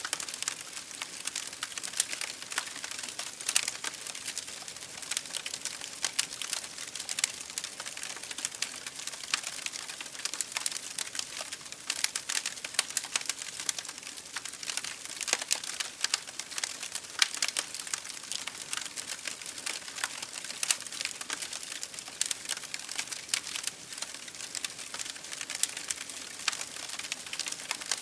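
Wood fire burning in an open fireplace, crackling steadily with many dense, irregular pops and snaps over a soft hiss.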